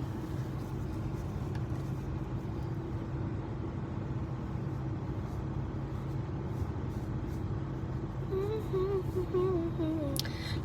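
Steady low vehicle rumble with a constant hum, heard from inside a car's cabin. A faint wavering voice comes in near the end.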